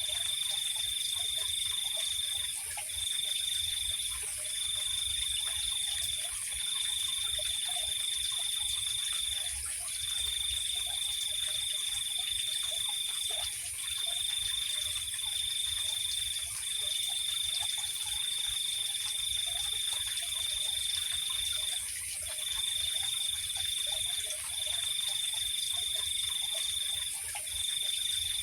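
Night insect chorus. One insect trills at a steady high pitch in long runs broken by short pauses, over a continuous, higher-pitched insect hiss. Faint scattered calls sound underneath.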